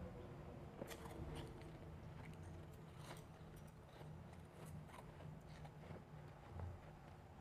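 Faint, irregular crunches of refrozen powdery ice being chewed.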